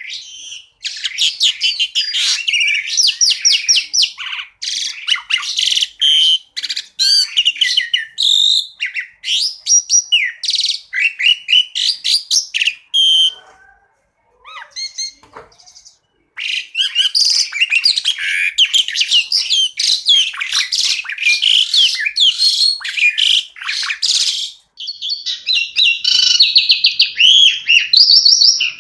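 Asian pied starling (jalak suren) singing a long, varied song of rapid chattering and whistled notes. It breaks off for a couple of seconds about halfway, then resumes and ends on a fast repeated trill.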